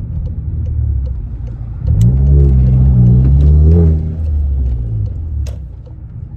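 Car engine idling, then revved about two seconds in, held up for about two seconds and dropping back toward idle. The car has a Ram Air Jetstream aftermarket intake.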